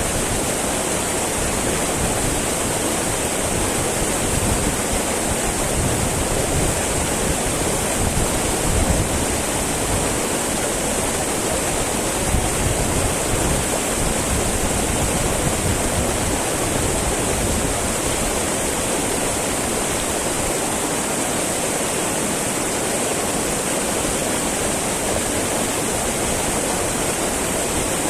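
Small mountain river babbling and rushing over rocks, a steady, even flow of water.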